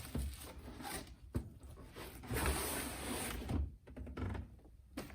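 Flat paperboard boxes being handled: a couple of sharp knocks, then cardboard sliding and scraping against cardboard as the stack is pulled out.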